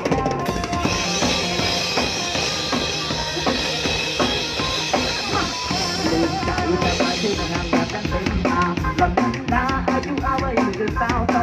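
Live band playing an instrumental passage between sung lines, driven by a full drum kit with kick and snare on a steady beat. A bright, hissing wash rides on top from about a second in until about seven seconds.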